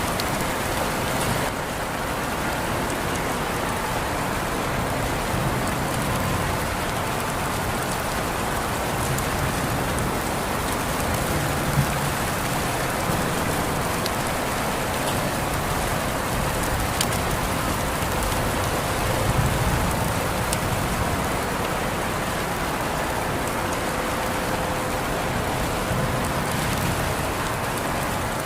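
Steady rain falling, an even hiss with a few scattered louder drop ticks.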